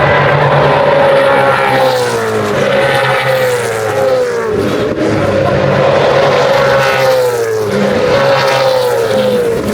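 Race cars' engines running hard on the circuit, a loud note that is held and then falls in pitch several times as cars lift and brake or pass by.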